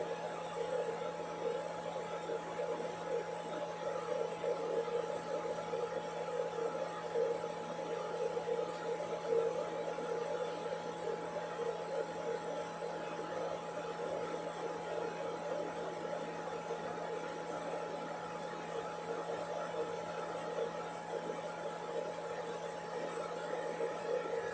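Blow dryer running with a steady whirring hum.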